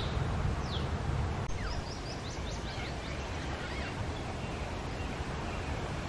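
Outdoor ambience of birds chirping: short, high, falling chirps, with a quick run of them about two to three seconds in, over a low wind rumble on the microphone that eases off about two seconds in.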